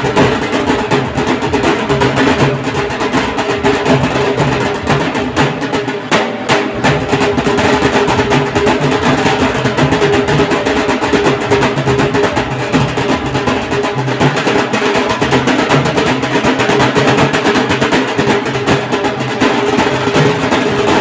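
Dhol party band playing: dhol drums beating continuously under held melodic tones.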